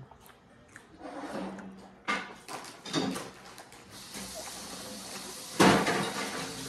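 Biting and chewing a toasted grilled cheese sandwich close to the microphone, with a couple of crisp crunches. From about four seconds in a tap runs with a steady rush. A loud thump comes near the end.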